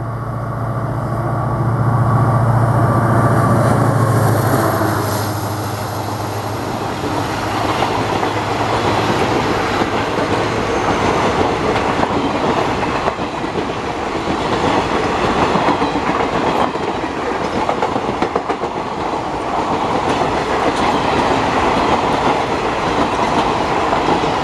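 WDG4 (EMD GT46MAC) diesel locomotive passing at speed, its engine droning loudly for the first few seconds. Then a long rake of passenger coaches rolls past with a steady clickety-clack of wheels over the rail joints.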